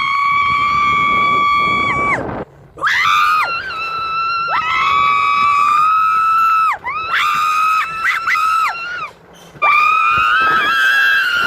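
A person screaming in long, high-pitched, held screams, about four in a row with brief breaths between them, as in a thrill-ride scream.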